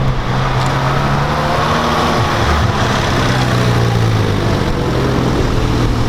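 Car engine running at a steady low note, idling or moving slowly; the note dips briefly a little past two seconds in and settles slightly lower near the end.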